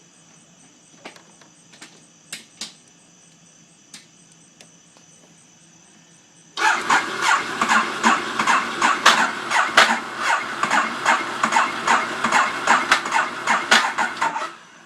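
Ducati 848's L-twin engine being cranked on its electric starter, a fast regular pulsing of about four strokes a second that starts suddenly about six and a half seconds in and stops abruptly after about eight seconds without the engine catching: the bike is hard to start. A few sharp clicks come before it.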